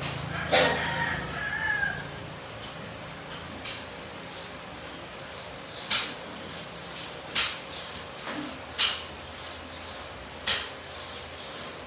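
A rooster crows briefly about half a second in. Later come sharp metallic clanks of hand tools on car suspension parts, four loud ones about one and a half seconds apart in the second half, with fainter taps before them.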